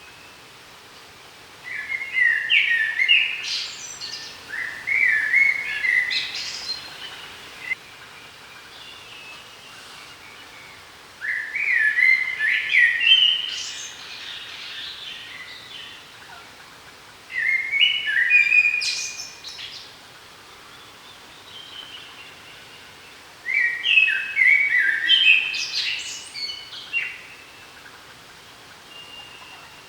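A songbird singing, repeating a short phrase of quick stepped whistled notes that ends in a brief higher flourish, about five times with pauses of a few seconds between, over a faint steady outdoor background.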